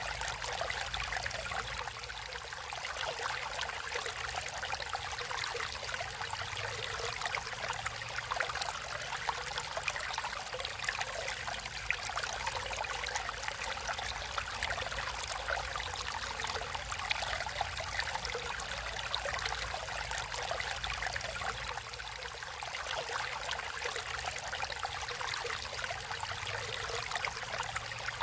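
Natural stream water flowing and trickling, a steady splashing rush with fine bubbling detail.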